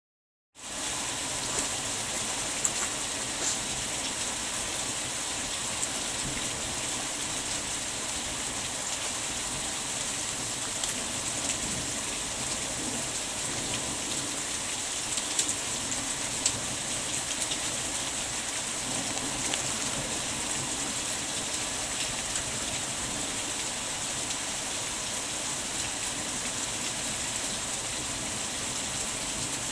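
Heavy rain falling steadily, with a few sharp drops tapping close by.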